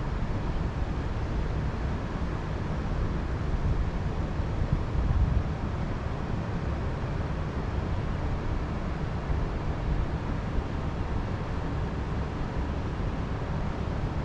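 Wind blowing, with gusts buffeting the microphone as an unsteady low rumble.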